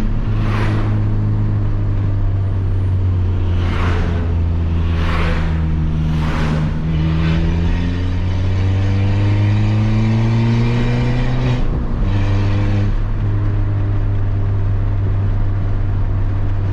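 Peugeot 206 1.4 four-cylinder engine with a straight-pipe exhaust (no mufflers) running under way, with several short bursts of noise in the first seven seconds. The revs climb steadily for several seconds and then drop suddenly about twelve seconds in.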